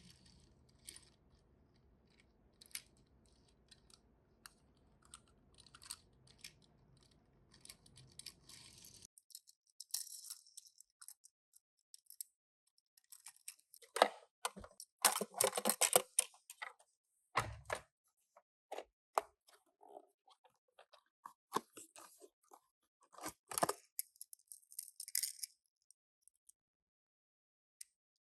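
Handling noise from unboxing a Tomica diecast minicar: scattered small clicks, taps and rustles of a cardboard box, plastic packaging and the metal toy car, with a louder burst of crinkling and clatter about halfway through and another shorter one a few seconds later.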